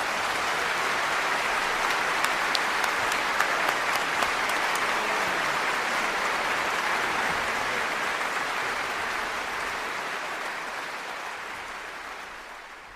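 Concert audience applauding at the end of the song: dense, steady clapping that fades away near the end.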